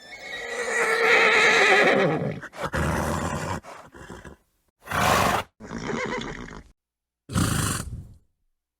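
A horse neighing: one long whinny with a wavering pitch that falls over about two and a half seconds. It is followed by four shorter, rougher snorts, with sudden silent gaps between them.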